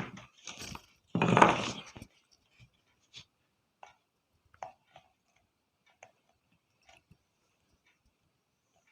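Faint, scattered small clicks and taps of hand tools on an LED bulb's circuit board during desoldering with a soldering iron. A short voice-like sound comes about a second in.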